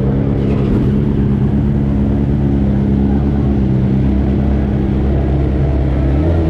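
Superbike engines idling steadily with a low, even hum, warming up before pit lane opens. The pitch shifts slightly near the end.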